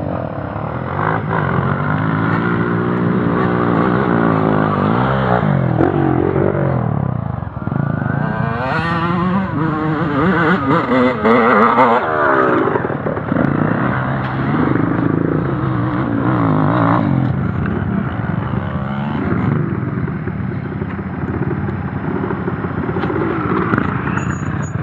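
Off-road trail motorcycle engine being ridden, its pitch rising and falling over and over with throttle and gear changes, most busily about halfway through.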